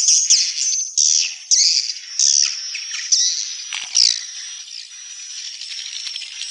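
Swiftlets (burung walet) twittering: a run of loud, high chirps, each falling in pitch. About four seconds in, these give way to a faster, buzzy ticking chatter.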